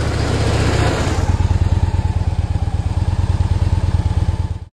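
2013 Victory Vision motorcycle's V-twin engine running at idle with a steady, low, evenly pulsing beat; the sound cuts off suddenly near the end.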